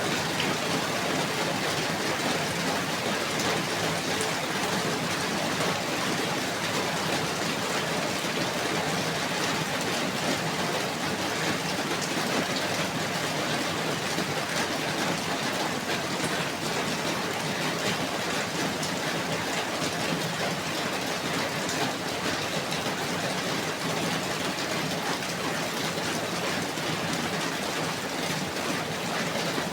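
Steady rain falling, an even dense hiss with no distinct drops standing out.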